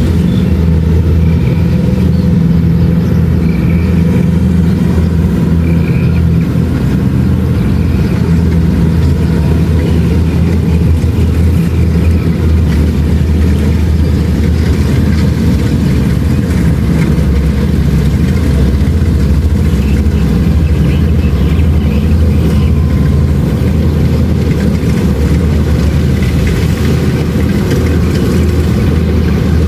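Kubota DC-70 Plus combine harvester's diesel engine running steadily, a loud, even low drone, while harvesting rice.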